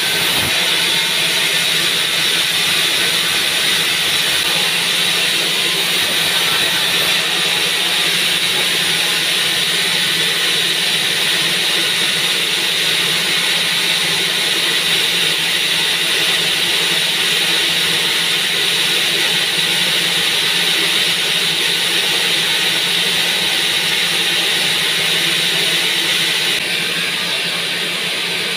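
Sawmill band saw running steadily through a pine log: a loud, even hiss of the blade in the wood over a low machine hum. The hiss eases a little near the end.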